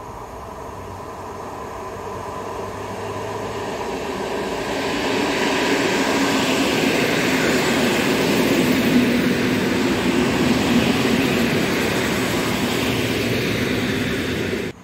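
Electric multiple unit passing a station platform: its wheels on the rails grow louder as it approaches, stay loud for several seconds as the carriages go by, then cut off suddenly near the end.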